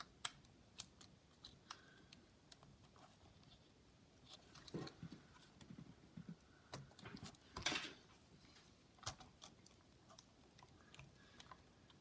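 Faint, scattered small clicks and taps of a laptop's internal cable and connector being handled while someone tries to reseat it, with a brief louder rustle about eight seconds in.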